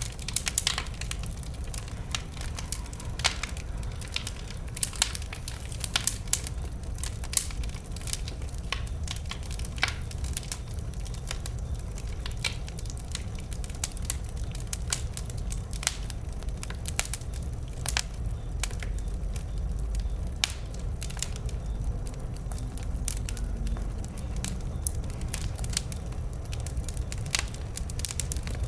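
Burning wood fire crackling, with irregular sharp pops and snaps over a steady low rumble of the flames.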